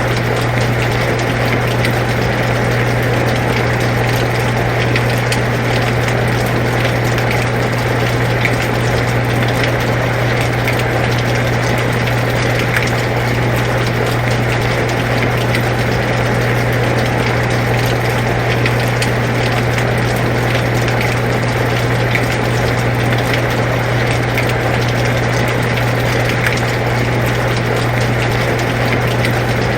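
Air conditioner running with a steady low hum, over the constant hiss of falling rain with scattered small drop ticks.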